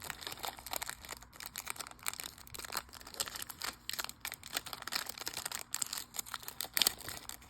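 Rustling and a run of small clicks from a Pokémon trading-card booster pack and its cards being handled.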